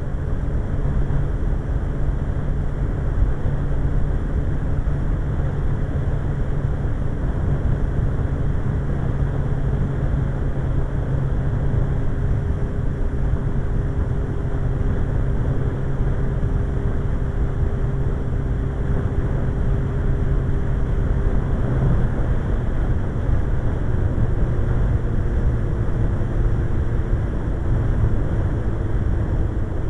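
Suzuki GSX-R1100's inline-four engine running steadily at road speed under heavy wind rush. About two-thirds of the way through, its note changes with a short rising sweep.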